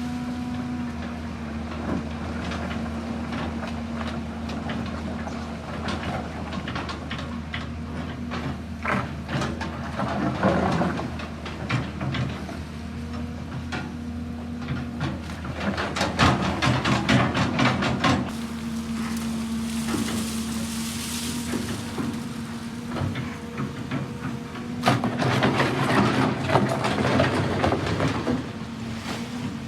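An excavator's diesel engine runs steadily, broken three times by loud bouts of clattering and scraping, as of the machine working material.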